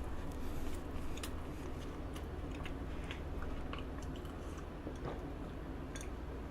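A person chewing soft cake, with small wet mouth clicks scattered throughout.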